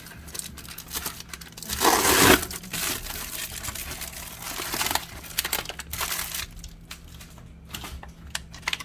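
Packaging being handled and opened: crinkling and tearing, loudest in a short rasp about two seconds in, followed by scattered rustles and small clicks.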